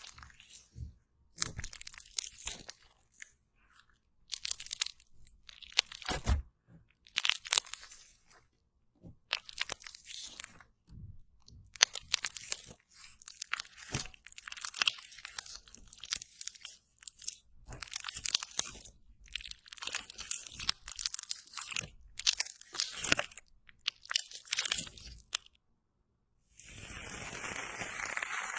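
Slime being wiped and pressed by hand in a string of separate crackly, squishy strokes with short pauses between them. Near the end this gives way to a steadier, continuous hissing rustle.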